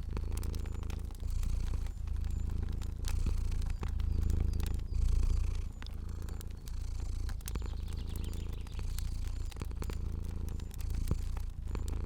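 Domestic cat purring steadily, the purr swelling and easing with each breath about once a second, over the scattered small pops and crackles of a fire.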